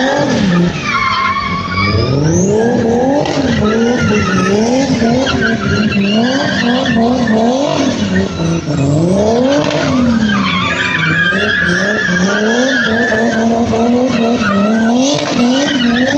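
A car drifting: its engine revs climb and drop over and over as the throttle is worked, under a continuous wavering tyre squeal from the spinning rear tyres.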